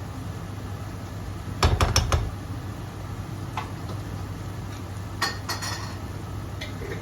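Dishes and cutlery clattering in a kitchen: a quick cluster of knocks and clinks about a second and a half in, then a few lighter clinks later, over a steady low hum.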